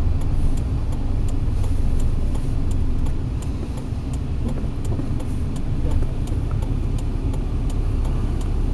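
Car moving slowly, heard from inside the cabin: a steady low engine and road rumble, with a light, regular ticking about twice a second.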